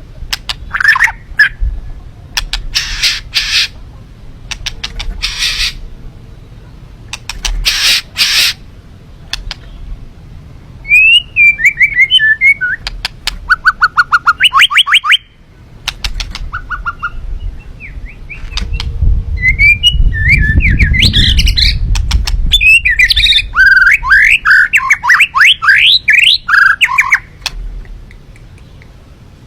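A songbird calling and singing close by. Harsh chattering calls alternate with rapid runs of clicking notes and quick whistled phrases that sweep up and down.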